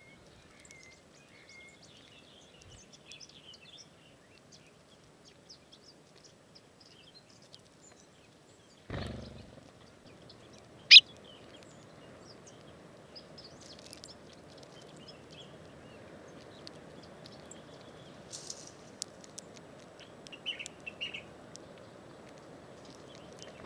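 Small wild birds chirping faintly and intermittently over a steady outdoor hiss. A brief low thump comes about 9 seconds in, and a single sharp, loud tick about 11 seconds in.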